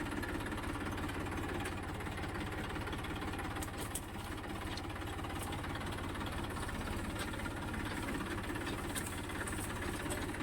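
Tractor's diesel engine running steadily with a rapid, even chug.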